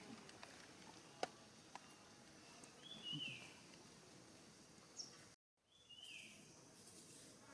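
A bird calling faintly in the background: a short, high, downward-slurred note repeated about every three seconds. There is a single sharp click about a second in.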